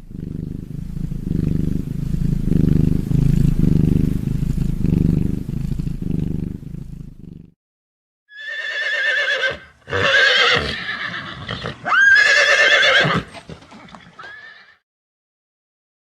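A low, pulsing rumble for the first seven seconds or so. After a short pause, a horse neighs: loud, high, shaking whinnies with swooping pitch, broken into several calls over about six seconds.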